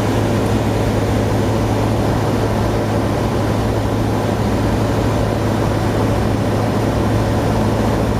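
Cessna 150M's Continental O-200 engine and propeller running steadily: an even drone with a constant low hum.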